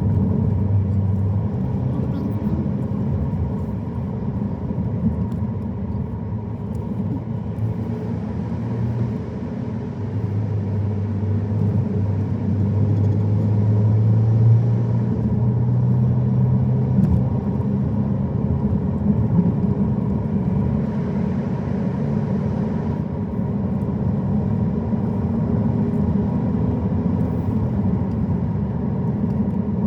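Car driving, its engine and tyres making a steady low drone. The engine note grows louder about ten seconds in and eases off again some seven seconds later.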